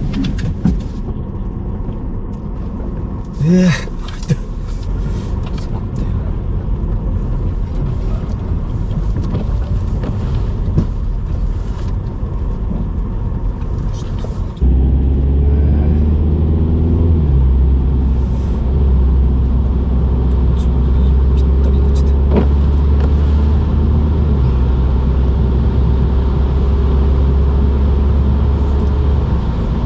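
Car heard from inside the cabin while driving: engine and road rumble. About halfway through the engine note jumps up suddenly and holds steady and strong, as under harder throttle.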